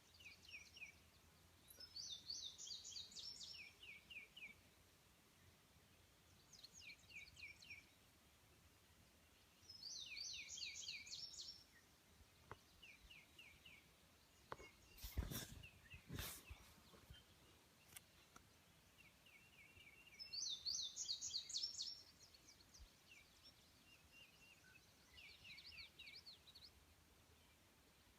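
A songbird singing the same short phrase over and over, a quick run of falling whistled notes lasting about two seconds, repeated roughly every eight to ten seconds, with fainter phrases between them. Two sharp clicks sound about halfway through.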